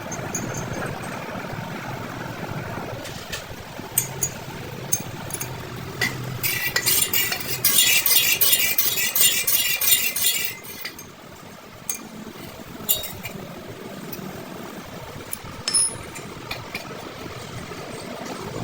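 Metal tools and parts clinking, with scattered sharp clicks and a rapid, even metallic rattle lasting about four seconds in the middle.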